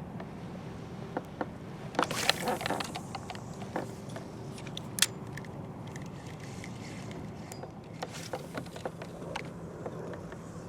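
Clicks, light rattles and scrapes of fishing tackle being handled in a kayak, busiest about two seconds in, with one sharp click about five seconds in.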